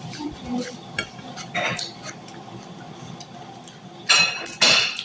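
Eating sounds: utensils clinking lightly on a dish, with mouth noises. Two loud, short noisy sounds come about four seconds in.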